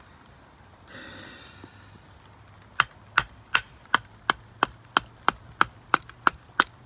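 Light, quick chopping strikes on a thin piece of wood, splitting it down into small kindling sticks: about a dozen sharp knocks at roughly three a second, starting about three seconds in, after a brief rustle of handling.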